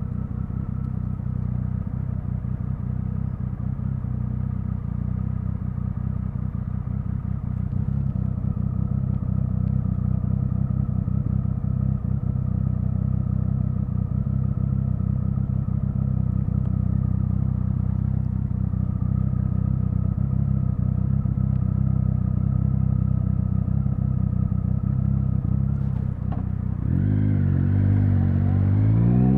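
Triumph Speed Triple 1050's inline three-cylinder engine running at steady low revs, then pulling away near the end with its pitch rising as it accelerates.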